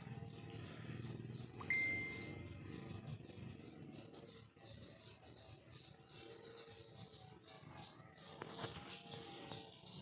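Birds chirping faintly: short high chirps that come several times in the second half, over a run of softer repeated chirps. A brief steady whistle-like tone sounds once, less than two seconds in.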